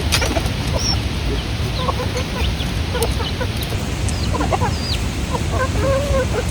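Chickens clucking in short, scattered calls over a steady rushing background noise.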